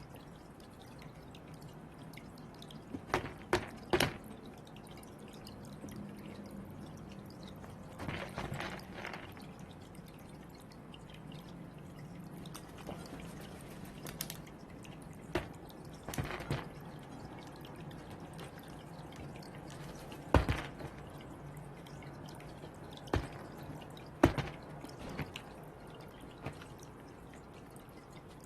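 Irregular sharp taps and knocks, a dozen or so at uneven intervals and sometimes two or three in quick succession: Northwestern crows pecking at and handling the balls. A steady low hum runs underneath.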